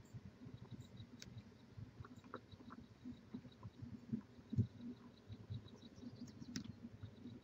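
Faint scuffling and low, irregular thumps on a barn owl nest-box microphone, with the loudest thump about four and a half seconds in, over a faint, evenly repeated high ticking.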